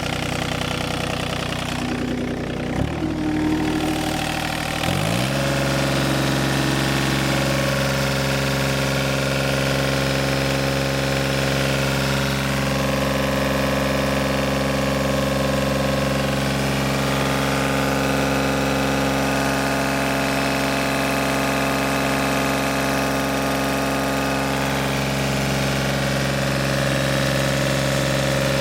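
John Deere 3235B fairway mower's Yanmar 3TNE84 three-cylinder diesel engine running. A single clunk about three seconds in, then the engine speed rises around five seconds in and holds steady at the higher speed.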